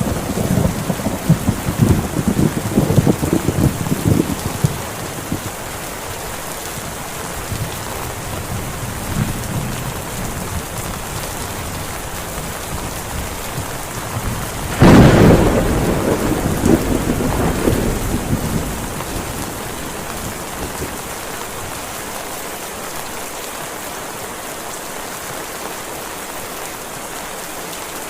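Heavy rain falling steadily, with rolling thunder rumbling through the first few seconds. About halfway, a sharp thunderclap is the loudest event, rumbling away over the next few seconds.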